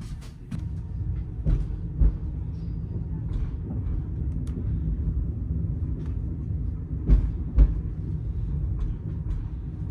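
Moving passenger train heard from inside a sleeper carriage (a CNR-built Special Express coach): a steady low rumble with two double clunks, about five seconds apart, as the wheels pass over rail joints.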